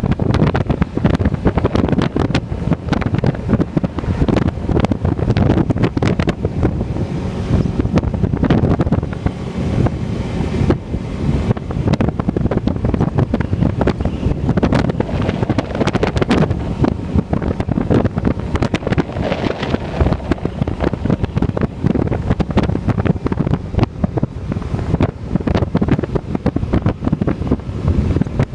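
Wind buffeting the microphone on a moving motorcycle, a dense rushing noise that flutters rapidly, with the bike's running and road noise beneath it.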